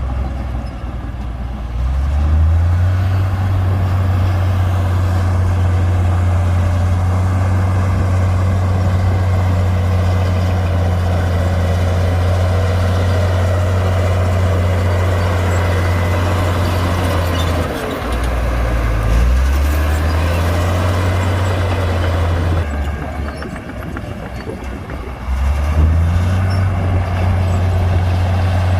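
Komatsu D58P bulldozer's diesel engine working under load. It revs up shortly after the start, then twice drops back briefly and picks up again.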